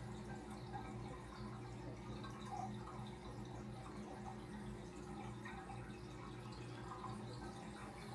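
Aquarium water trickling and dripping over the steady low hum of a running pump.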